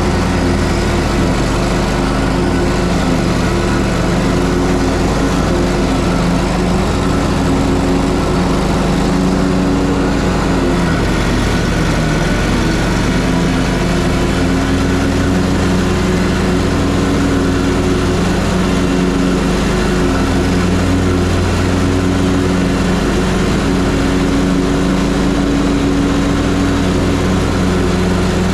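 Ferris Z3X zero-turn mower's 37 hp engine running steadily while mowing. Its note dips briefly and comes back up about eleven seconds in.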